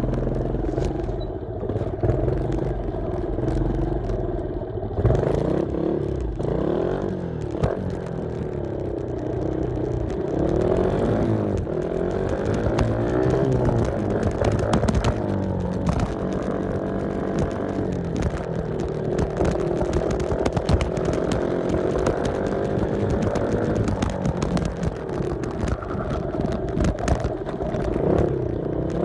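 Dirt bike engine running under way, its pitch climbing and dropping again and again as the rider revs and rolls off the throttle, with clattering from the bike over rough ground.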